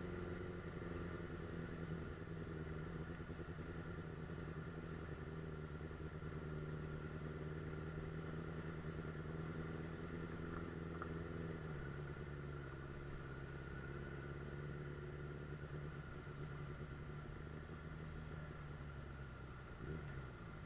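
Suzuki GSF 600 Bandit S's inline-four engine running steadily under way. Its pitch steps down about halfway through and falls again near the end.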